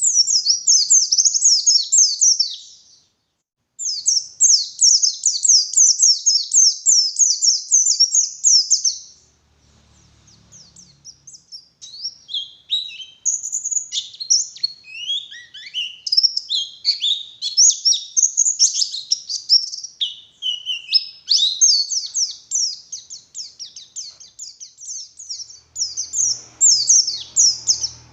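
White-eye (pleci) singing in long runs of rapid, high-pitched twittering notes. There is a short pause about three seconds in and a quieter stretch around ten seconds. The middle part is a more varied warble that dips to lower notes and rises again before the fast twittering returns.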